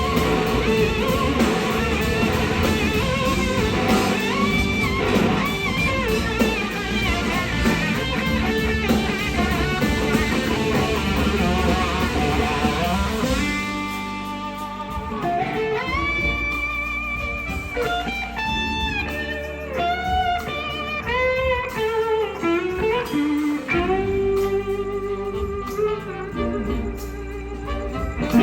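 Live electric slide guitar solo over a blues-rock band. The band plays densely at first, then thins out about halfway through, leaving long held slide notes with wide vibrato and glides in pitch.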